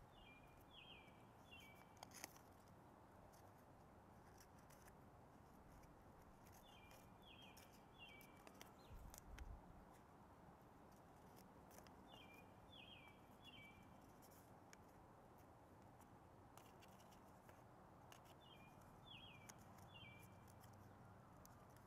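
Faint background with a bird repeating a short phrase of three quick falling notes about every six seconds, and light ticks and rustles of paper being folded by hand.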